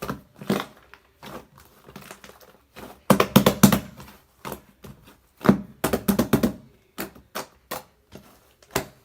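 Brown-sugar bubble tea slime being squished and pressed by hand, giving irregular sticky clicks and pops, with two denser, louder runs of popping about three seconds in and about five and a half seconds in.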